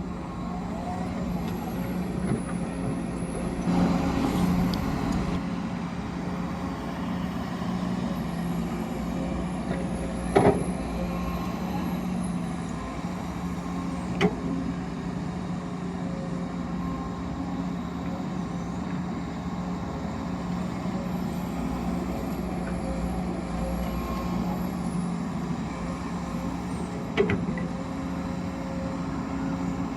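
A vehicle engine running steadily with a low drone, broken by three sharp knocks, one about a third of the way in, one near the middle and one near the end.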